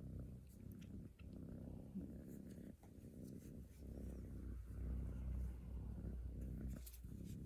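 Domestic cat purring close by: a steady low purr that pauses briefly about once a second with each breath.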